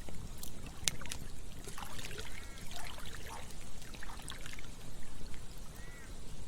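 Campfire crackling with scattered sharp pops, over a trickling, gurgling stream.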